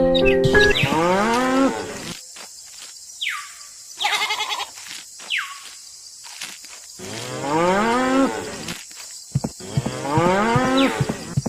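A cow mooing: several long moos, each rising and then falling in pitch, with short high downward chirps between them.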